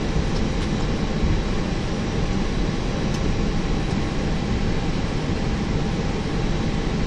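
Steady cockpit noise of an Airbus A321: an even rush of airflow and engine drone, with a few faint steady high tones over it.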